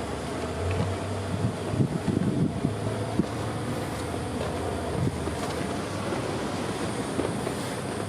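Inside an ADtranz/Bombardier Variotram light rail vehicle: a steady hum and noise from the tram's machinery, with a cluster of knocks and clatters in the first few seconds.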